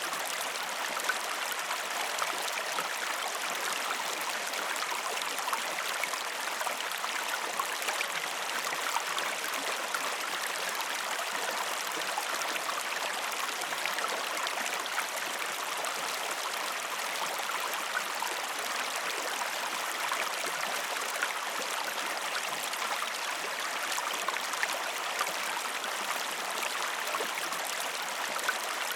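River water flowing steadily: an even rush of water with small irregular splashy ticks throughout.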